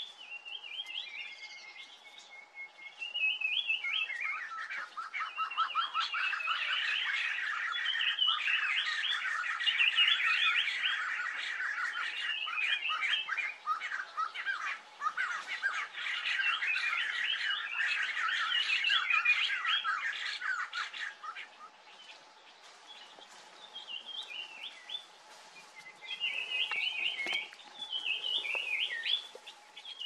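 Birds chattering and squawking in a dense run of quick calls, which thins out after about twenty seconds and picks up again near the end. A faint steady hum runs underneath.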